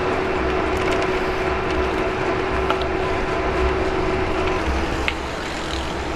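Ariel Rider Rideal e-bike ridden over rough city pavement: steady rolling and rattling noise with a few sharp clicks, and a steady whine that stops about four and a half seconds in.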